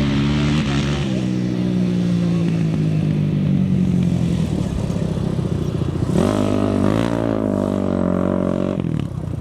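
Off-road racing engine running, its pitch slowly falling over several seconds. About six seconds in it revs up sharply, holds high for a couple of seconds, then drops off near the end.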